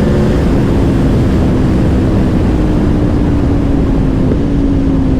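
Aprilia Tuono V4 Factory's V4 engine running at steady road speed, its note sinking slowly lower, under heavy wind rush on the riding camera's microphone.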